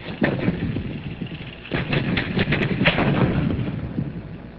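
Rumbling noise in an old, narrow-band recording, with a cluster of sharp cracks about two seconds in.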